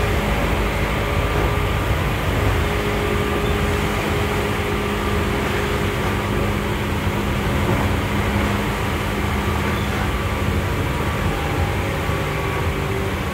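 Running noise of a Seibu 2000 series electric train, heard inside motor car MoHa 2155 at speed: a steady rumble of wheels and running gear, with a few faint steady hum tones.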